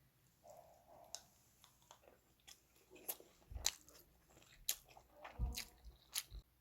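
A person eating: chewing and crunching, with irregular sharp clicks and knocks, the loudest about three and a half seconds in, again a little after five seconds, and near the end.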